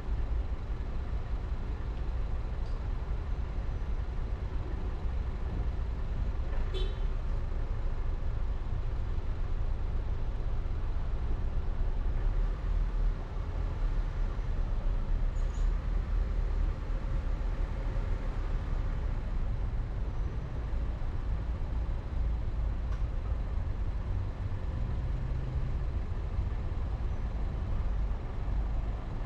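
Steady low rumble of a car being driven on the road, with a brief high squeak about seven seconds in.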